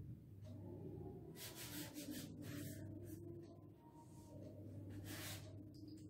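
Chalk writing on a blackboard: several short strokes, with the longest about one and a half seconds in and again near five seconds.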